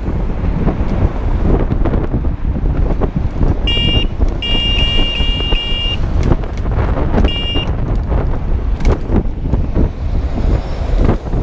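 Steady traffic and wind noise on the microphone while riding, with a horn sounding about four seconds in: a short beep, a longer broken beep, then another short beep.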